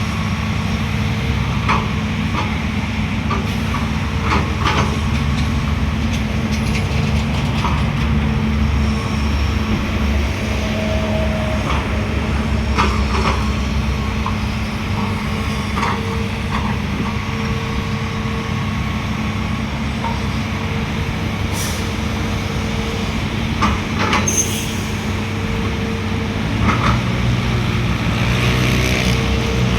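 Heavy diesel engines of a ten-wheel dump truck and an excavator running steadily, with scattered metallic knocks and clanks. The truck is tipping a bed of sticky clay that clings and is slow to slide out, heavy enough that the truck's front end lifts.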